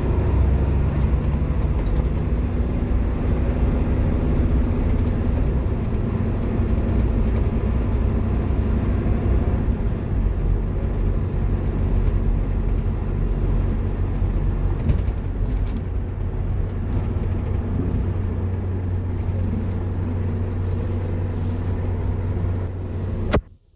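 Scania K230UB Omnilink bus's five-cylinder diesel engine running steadily under way, heard from on board, with the drone shifting slightly partway through. The sound cuts off suddenly near the end.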